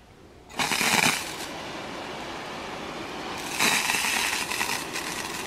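Water spraying from a hose-end watering wand (DRAMM RainSelect), a steady hiss that starts suddenly about half a second in and swells louder twice.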